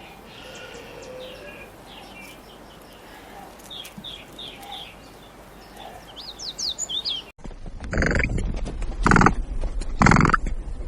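Small birds chirping and twittering in the background. About seven seconds in, the sound cuts to a large animal's loud calls, three of them about a second apart.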